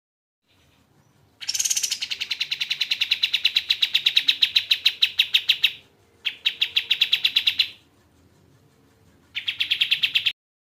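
Kapas tembak bird singing: three bursts of rapid, evenly repeated chattering notes, the first about four seconds long and the next two shorter. The last burst cuts off suddenly.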